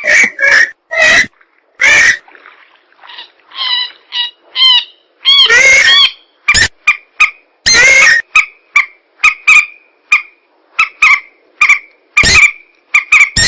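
Looped recorded calls of swamp birds, mandar rails and pelan, played as a hunting lure: quick series of short repeated notes with loud, harsh squawks in between.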